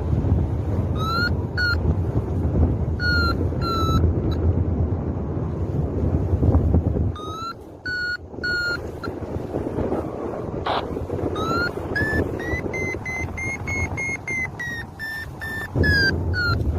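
Paraglider variometer beeping in short groups over wind rushing on the microphone. The beeps come faster and higher from about two-thirds of the way in, the tone a vario gives when the glider is climbing in lift.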